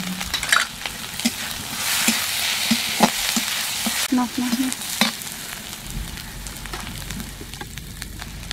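Onions and green chillies sizzling as they fry in mustard oil in a metal kadai, with a flat metal spatula scraping and clicking against the pan as it stirs. The sizzle is loudest from about two to four seconds in.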